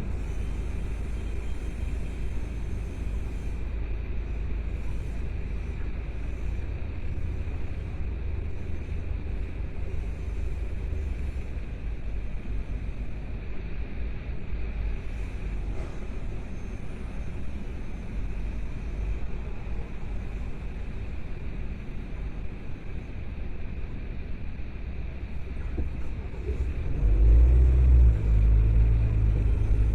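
Car driving: a steady low road and engine rumble, growing louder about three seconds before the end.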